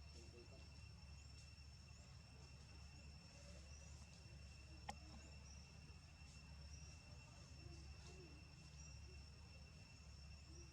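Near silence: faint background with a steady high-pitched whine and a low hum, and one sharp click about five seconds in.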